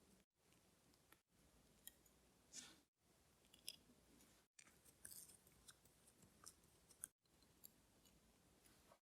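Faint, scattered small clicks and short scrapes of fine metal watchmaker's tools working on a wristwatch movement, with several abrupt dropouts to silence.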